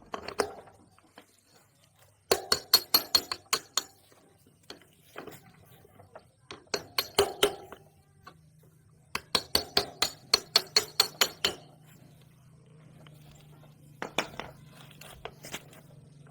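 Runs of rapid, sharp metal-on-metal taps, about seven strikes a second, in four bursts with short pauses between. A low steady hum comes in about halfway through.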